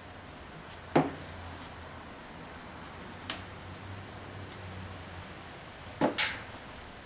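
A few sharp knocks on wood: one about a second in, a faint one in the middle and a quick pair near the end, over a faint low hum.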